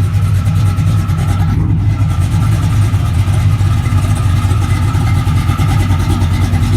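Car engine running steadily with a loud low rumble, not revving.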